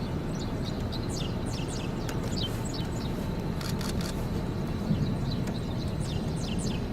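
Birds chirping outdoors, a stream of short, falling calls several times a second, over a steady low rumble.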